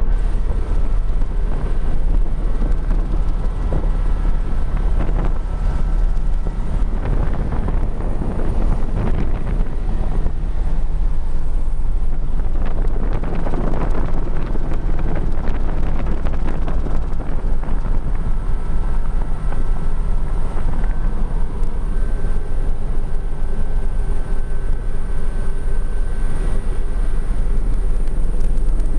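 Crop-spraying helicopter in flight, running steadily: a loud low drone with a thin, steady high whine over it.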